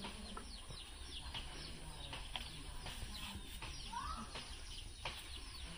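Birds chirping: many short, high, quick chirps throughout, with one rising-and-falling call about four seconds in, over a faint low hum.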